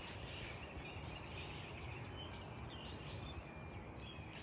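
Outdoor ambience: a steady low background rumble with a few faint bird chirps in the middle.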